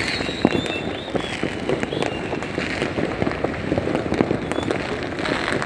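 Many fireworks and firecrackers going off at once, a dense, continuous crackle of cracks and pops with no break.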